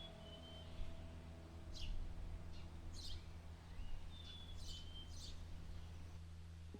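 Small birds chirping, several quick calls that sweep downward in pitch with a few short whistled notes, over a soft, steady low drone of ambient music.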